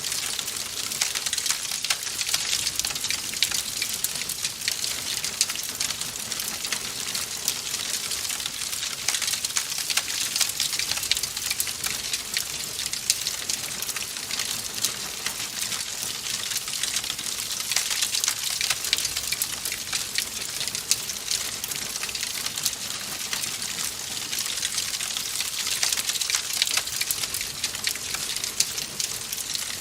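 Wood fire in a fireplace crackling steadily, a dense run of small pops and snaps over a soft hiss.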